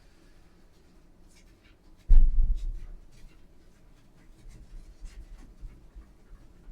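Faint short scrubbing strokes, as in cleaning bathroom surfaces by hand. About two seconds in comes one loud low thump that fades over about a second.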